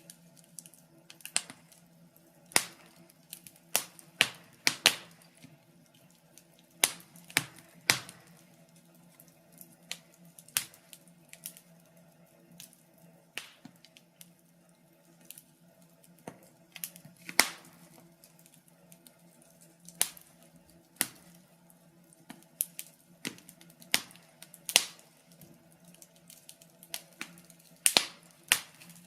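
Wood fire burning in a fireplace, crackling with irregular sharp pops and snaps, several every few seconds, over a faint low hum.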